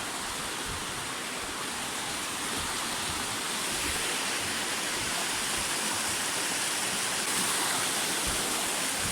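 Steady rush of a flowing river, growing slightly louder partway through.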